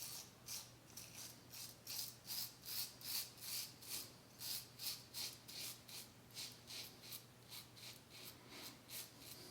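Double-edge safety razor (Merkur Futur with a fresh Dovo blade) scraping through two days' stubble on lathered skin in short, quick strokes, a scratchy rasp about three times a second.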